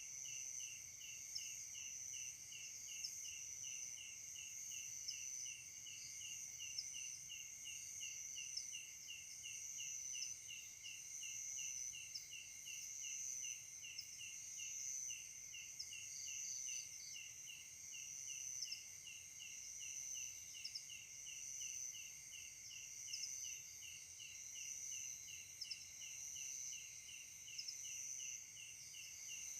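Night insects calling: crickets chirping in an even rhythm of about two to three chirps a second, over a steady high-pitched trill of other insects.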